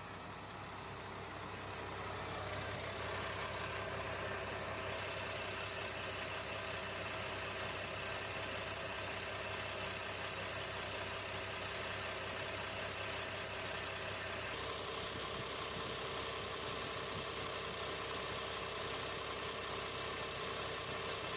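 Freshly overhauled Yuchai diesel bus engine idling steadily, its sound changing abruptly about 15 seconds in.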